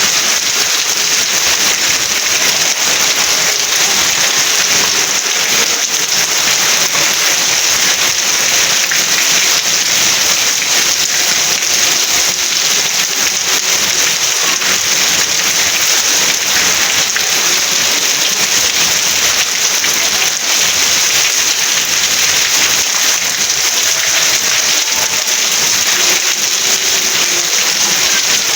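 Steady rain falling, a dense, even patter of drops that doesn't let up.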